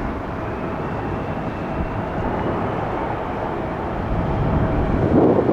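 Airbus A320-200 jet engines on an arriving airliner, a steady rushing noise with a faint high whine that rises slightly.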